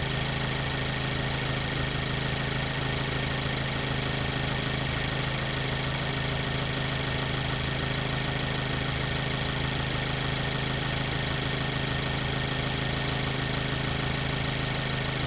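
2014 Mazda 3's 2.0-litre four-cylinder engine idling steadily on new spark plugs while it warms up after a cylinder 2 misfire repair.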